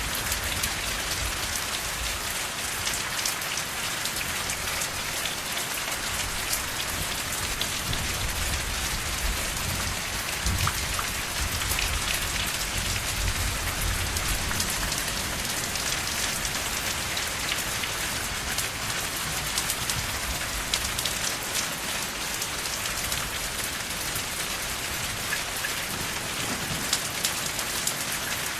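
Steady rain falling, with dense pattering of drops on surfaces and a faint low rumble that comes and goes underneath.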